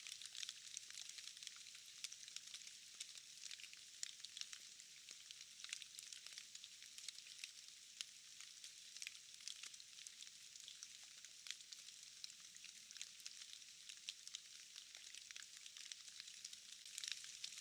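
Faint, thin rain patter: a soft hiss full of fine crackling drop ticks, with no low rumble or thunder.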